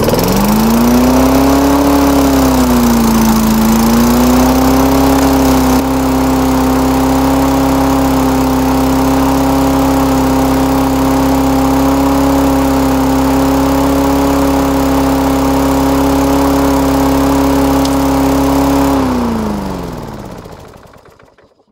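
Single-cylinder lawn mower engine catching and revving up, its pitch dipping briefly, then holding steady at a far too high speed before winding down and stopping near the end. It runs way too high because the governor spring is caught on the throttle plate, which the owner takes to be the cause.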